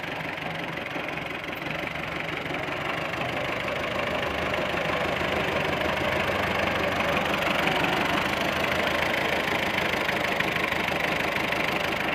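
Tractor diesel engine running steadily, getting louder over the first half and then holding level.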